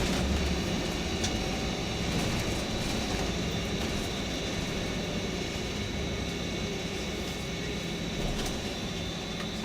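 Tour bus running on the road, heard from inside the cabin: a steady low engine and road hum with a faint, steady high whine above it.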